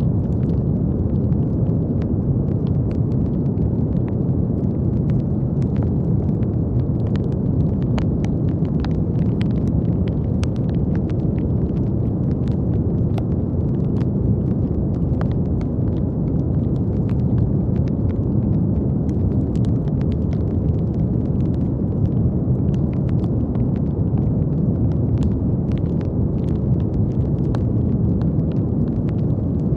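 Continuous brown noise, a deep, even rumbling hiss weighted toward the low end, with faint scattered crackling clicks throughout.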